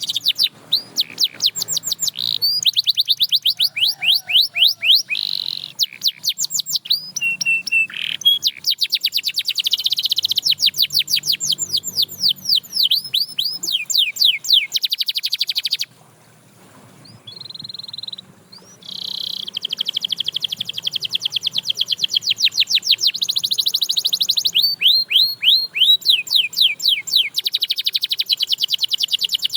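Canary singing in long runs of very fast repeated trill notes, with a break of about three seconds just past the middle where only a short held note sounds before the trills resume.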